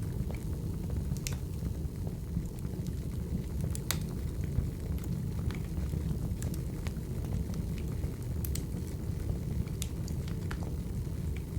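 Wood fire burning: a steady low rumble of flames with sharp crackles and pops scattered at irregular intervals, a few of them louder, about four seconds in and near eight and a half seconds.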